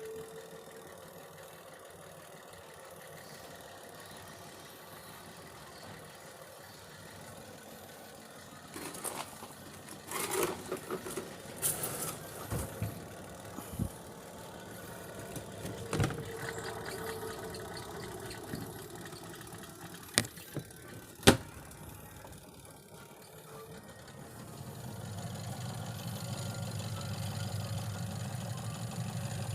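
Clicks and clatter from handling the Sharp twin-tub washing machine, with a few sharp snaps, then the spin-dryer motor starting and running with a low hum that builds over a couple of seconds and holds near the end.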